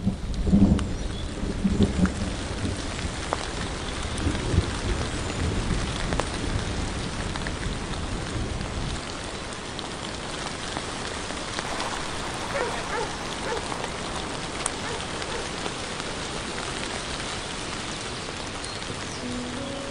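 Steady rain falling, with low rolls of thunder rumbling through the first half that stop about nine seconds in.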